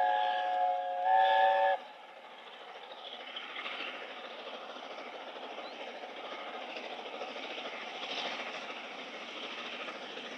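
Steam locomotive's chime whistle sounding a chord of several notes, with a short break about a second in, then cutting off sharply before two seconds. After that comes the steady running noise of the train.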